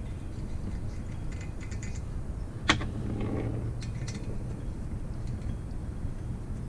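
Hand tools working the bolts on a two-stroke motorized-bike engine: scattered light metallic clicks, with one sharp click about two and a half seconds in.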